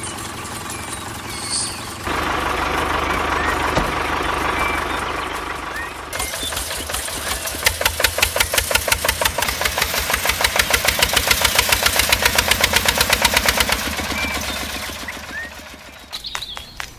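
An engine running, growing louder about two seconds in. It then settles into a fast, even chugging of about six beats a second, which fades away near the end.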